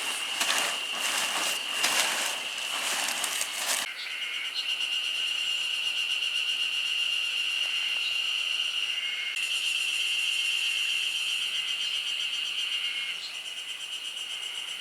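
Insects trilling in a steady, high-pitched chorus. Dense irregular crackling lies over it for about the first four seconds and then stops suddenly.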